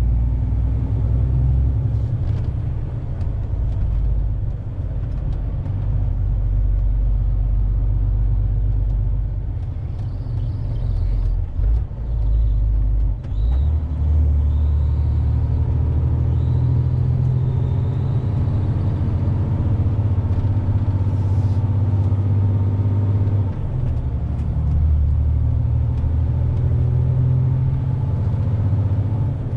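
Truck's diesel engine and road noise heard from inside the cab, a steady low drone. Its pitch shifts about halfway through and again near the end as the engine speed changes.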